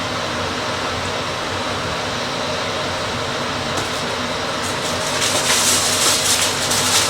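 Aluminium foil being crinkled and pressed over a dish of green beans, an irregular crackling that starts about five seconds in, over a steady fan-like hiss.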